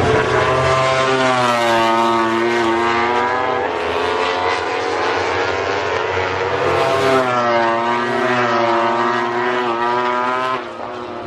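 A vehicle engine running under changing load, its pitch sweeping down, holding, then rising and falling again in two long spells over a steady low hum.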